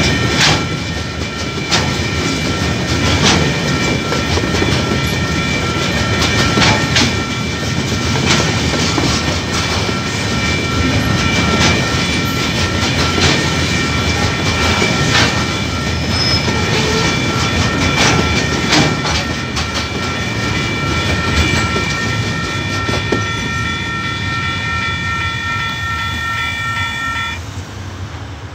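Freight wagons of a KiwiRail coal train rolling past, a steady rumble with wheels clacking over rail joints every second or two, while the level crossing's warning bells ring continuously. The bells stop about a second before the end as the crossing clears.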